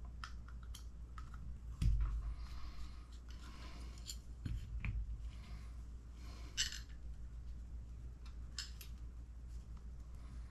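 Small parts and tools being handled while taking apart an RC truck's transmission: scattered light clicks and taps, with a duller knock about two seconds in and again near five seconds, over a steady low hum.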